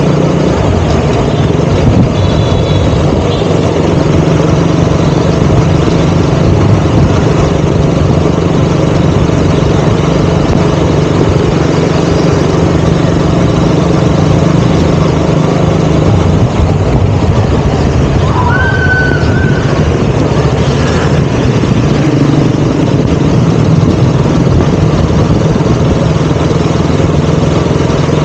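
KTM Duke 200's single-cylinder four-stroke engine running steadily while riding in traffic. A brief high-pitched tone sounds about two-thirds of the way through.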